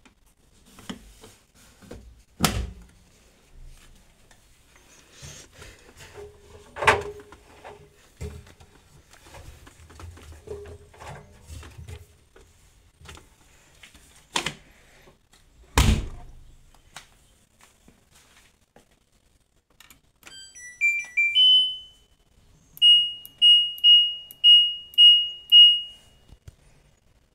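Knocks and thumps of a washing machine being handled, the heaviest thud about 16 seconds in. Then the control panel beeps: a few short tones at changing pitch, then a run of about six even, high beeps.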